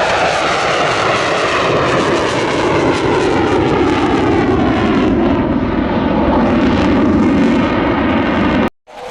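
Fighter jet engine roaring loud and steady as the aircraft flies past, its tones slowly falling in pitch. The sound cuts off suddenly near the end.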